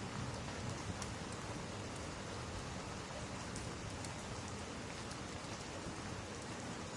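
Steady rain falling: an even hiss with a few faint high ticks of drops.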